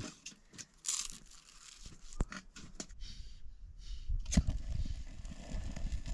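Crinkling, scraping and snapping handling sounds with scattered sharp clicks, as breakfast and the firewood are got ready, over a low rumble of wind on the microphone that grows from about four seconds in.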